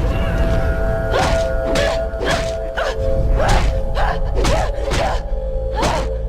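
Dramatic score with held notes, under a quick series of about nine sharp hits, roughly two a second, like punches and kicks in a fight scene.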